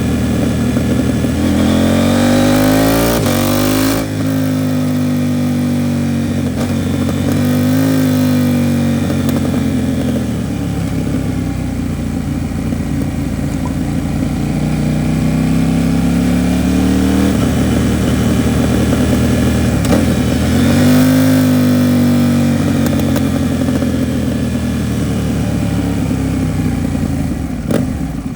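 KTM 790 Duke's parallel-twin engine through an Arrow Pro Race titanium exhaust, pulling up in pitch for the first few seconds, dropping sharply at a gear change about four seconds in, then rising and falling as the throttle opens and closes while riding, with more pulls in the middle and about two-thirds of the way through.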